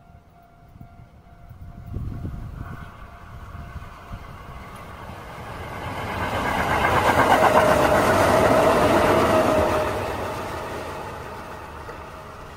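Electric commuter train passing close by on the track: its running sound grows, is loudest a few seconds past the middle with a steady high tone in it, and then fades as the train moves away.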